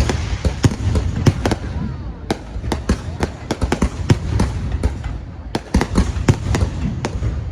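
Fireworks display going off: a dense, irregular string of sharp bangs and crackles over a continuous low rumble.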